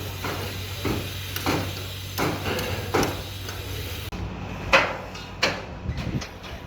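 Repeated hammer blows, a sharp knock roughly every half second to second, over a steady low hum. About four seconds in the sound changes abruptly and a few louder knocks follow.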